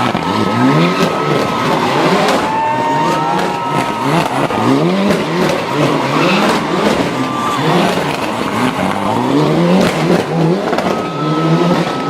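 Mitsubishi Lancer Evolution VI's turbocharged four-cylinder engine driven hard up a hill climb, its note rising in pitch again and again as it revs up between shifts and corners. Tyres squeal briefly a few times as the car slides.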